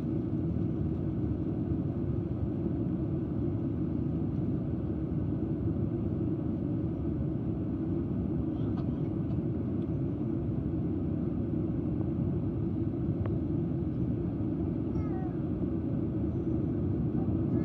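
Steady low rumble of an airliner's jet engines heard from inside the passenger cabin, even in level throughout.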